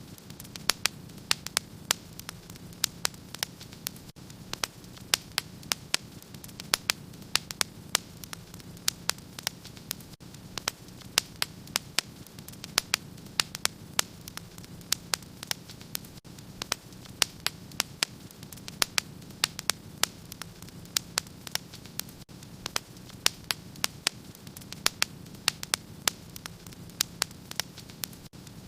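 Fireplace fire crackling: frequent sharp pops and snaps, several a second at irregular intervals, over a steady low background noise.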